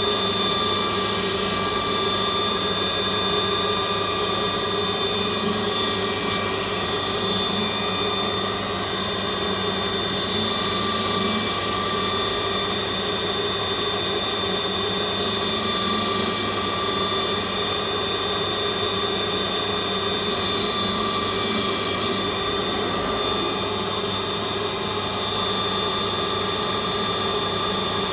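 CNC lathe running steadily while turning a chisel handle, with a constant motor whine. A brighter hiss swells and fades about every five seconds.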